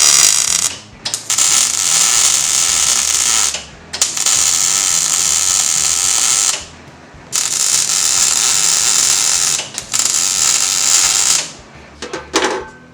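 A mechanical tool running in about five bursts of two to three seconds each, with short pauses between them, a loud hissing whirr.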